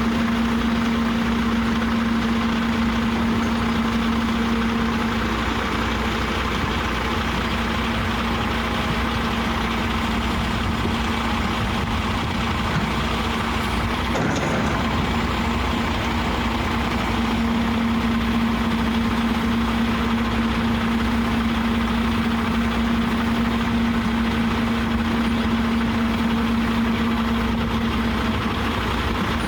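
Kenworth T880 gravel truck's diesel engine running steadily, with a constant hum that fades for a few seconds about halfway through.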